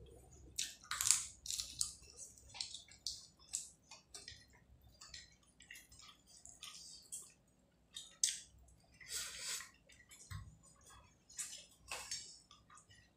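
Eating rice and prawn curry by hand: irregular wet clicks and smacks of chewing, mixed with fingers squishing rice on the plate.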